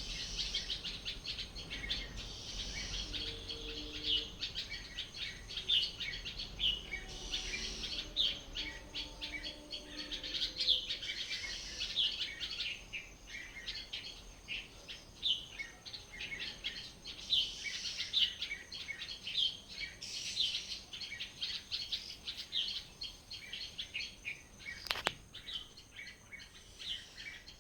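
Many small birds chirping and twittering at once, a dense, continuous chorus of quick high notes, with a single sharp click near the end.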